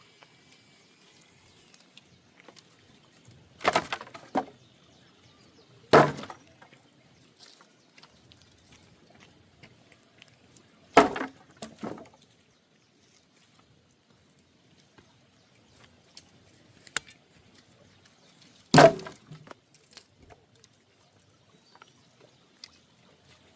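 Sharp knocks of firewood being worked. There are six in all, spread unevenly several seconds apart: a pair about four seconds in, one at six seconds, another pair near eleven seconds, and a last loud one near the end.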